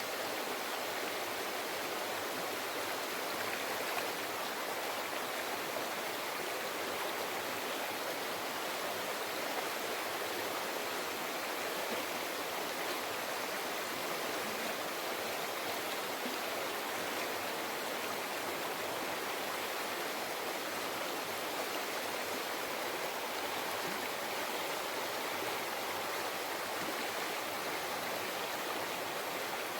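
River flowing: a steady, even rush of water with no breaks.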